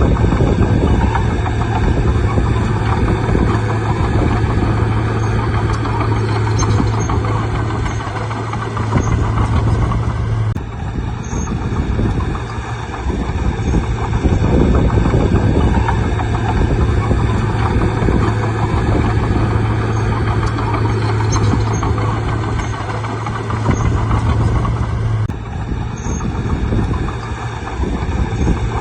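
Bulldozer's diesel engine running steadily with a deep drone that swells and eases as it works. The sound breaks off abruptly and resumes twice, about ten and twenty-five seconds in.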